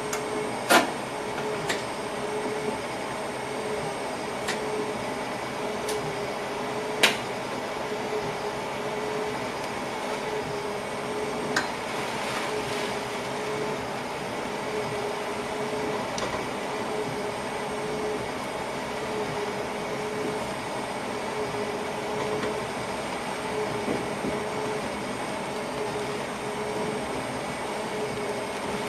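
Steady hum and rumble of a passenger train heard from inside the driver's cab, with a few sharp clicks or knocks, the loudest about a second in and about seven seconds in.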